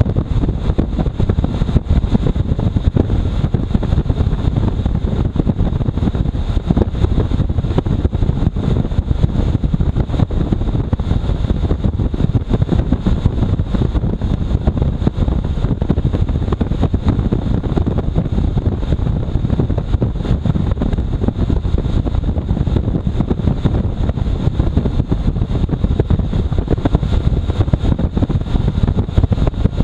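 Wind buffeting the microphone during a motorcycle ride on a very windy day: a loud, steady low rumble with no clear engine note standing out.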